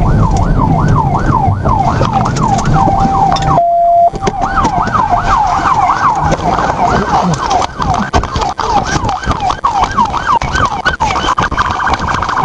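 Police car siren in a fast up-and-down wail, about three sweeps a second, over the pursuing car's engine. Around three to four seconds in, the wail breaks into a steady tone and the engine noise cuts out, then the fast wail resumes with scattered clicks.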